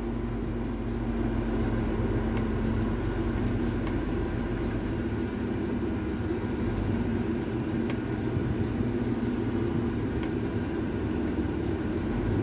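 Scania XT 540 truck engine running steadily while driving, a low, even drone with road noise.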